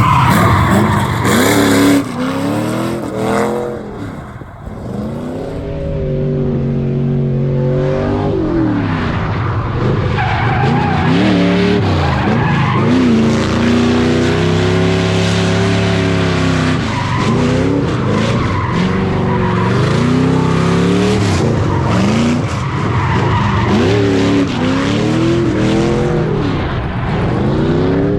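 LS V8-swapped Nissan S14 drifting: the engine revs climb and fall over and over, about every two to three seconds, as it is driven through slides, with the tyres skidding and squealing. The engine has a small exhaust leak at the headers.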